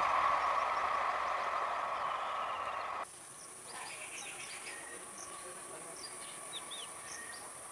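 Running noise of a passenger train's coaches on the rails, fading as the train moves away, cut off abruptly about three seconds in. Then a steady high insect buzz with scattered bird chirps.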